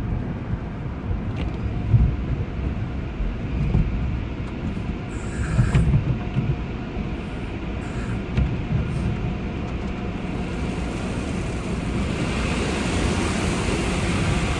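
Low, steady rumble of a car on the move, with a few light knocks and a hiss that grows louder over the last few seconds.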